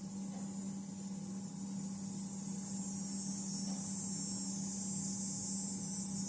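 A steady high-pitched insect drone, like crickets or cicadas, that swells about three seconds in, over a steady low hum.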